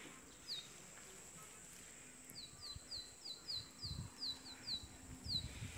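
A small bird calling over and over, short high notes that each drop slightly in pitch, coming in a quick run from about two seconds in, over a faint steady high hiss.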